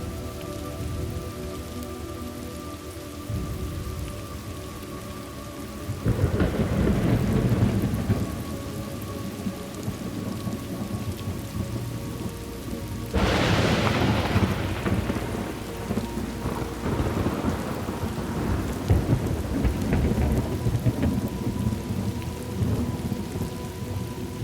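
Thunderstorm: steady rain with thunder. A low rumble builds about six seconds in, and a sharper, louder crack comes about thirteen seconds in and rolls on as rumbling to the end.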